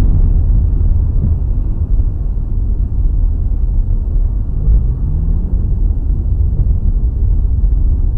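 Steady low rumble of a moving vehicle, with an engine note rising in pitch for about a second, some four and a half seconds in.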